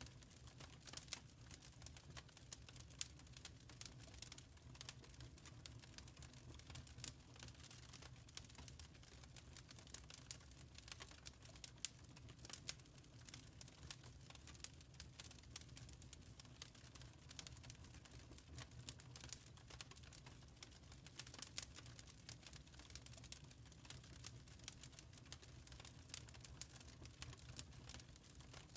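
Wood fire crackling in a fireplace, faint: frequent irregular small snaps and pops, a few sharper ones, over a steady low rumble.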